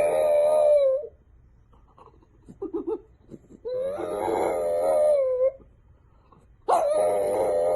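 A dog howling: three long, wavering howls at a steady pitch, with a few short yips between the first and second.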